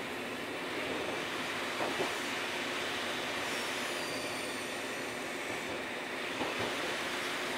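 Onboard running sound of an Eizan Electric Railway Deo 700 series car at speed: a steady rumble of wheels on rails, with a double clack of wheels over a rail joint about two seconds in and again near the end.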